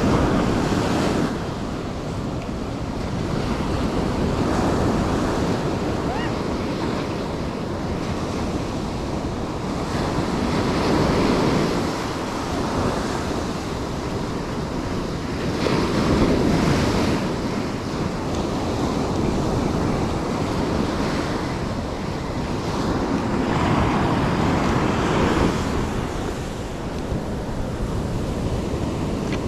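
Ocean surf breaking on the shore, swelling and easing every several seconds, with wind buffeting the microphone.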